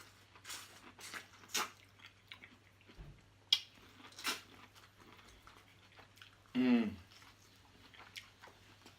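Close-up chewing and biting of food, with a series of short wet mouth and smacking sounds. A brief hummed murmur comes about two-thirds of the way in.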